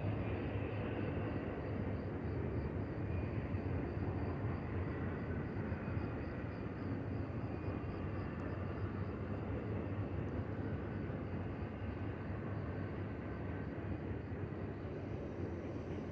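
Union Pacific intermodal train's container cars rolling past on the mainline: a steady rumble of wheels on rail with faint high wheel squeal, easing slightly near the end.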